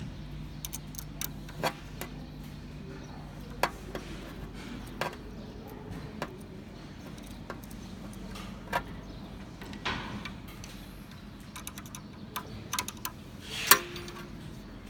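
Irregular clicks and light knocks of small tools and metal parts being handled while an X-axis motor is swapped out, with a low steady hum that stops about four seconds in.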